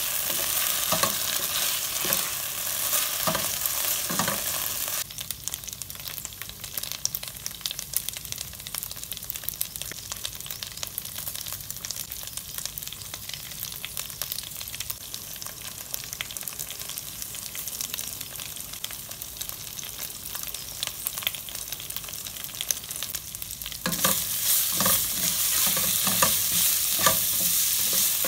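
Prawns frying in oil in a nonstick pan, sizzling steadily while a wooden spatula stirs and scrapes them around. The stirring and sizzle are louder for the first few seconds, drop to a quieter sizzle about five seconds in, and come back louder with more scraping near the end.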